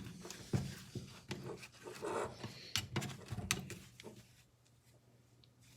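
Wire snips cutting through the miter saw's internal wiring, with scattered sharp clicks and small knocks of parts being handled. The clicks stop about two-thirds of the way through.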